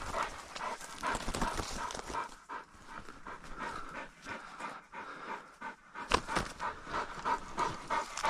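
Hunting dog panting quickly and rhythmically, about four breaths a second, winded from hunting and retrieving birds; the panting eases for a few seconds in the middle and comes back stronger near the end.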